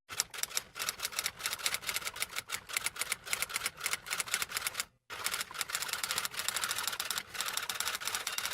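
Typing sound effect: rapid, irregular keystrokes clattering many times a second, in two runs with a short break about five seconds in.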